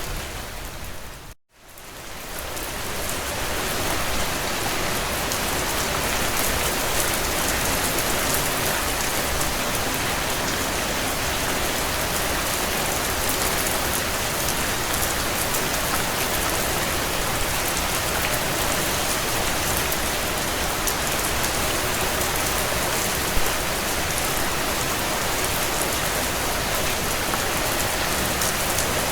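Heavy rain drumming on a tin roof, a dense, steady patter of drops. About a second and a half in, the sound drops out abruptly for a moment and then fades back in.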